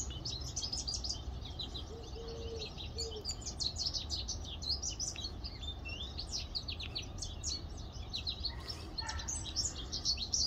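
Small birds chirping and twittering, a dense run of quick high chirps that goes on without a break, over a low steady background rumble.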